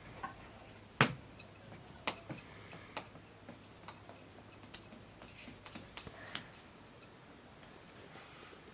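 Scattered clinks and knocks of kitchen utensils and dishes being handled, with the loudest knock about a second in.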